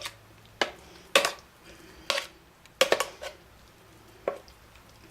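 A kitchen utensil knocking and scraping against a mixing bowl while ground chicken and liver is added to a dough of rice and eggs. It gives about six irregular sharp knocks, some with a brief ring.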